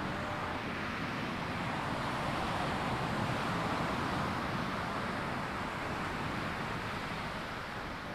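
Ocean surf washing on a sandy beach, a steady rush that swells about halfway through and then eases.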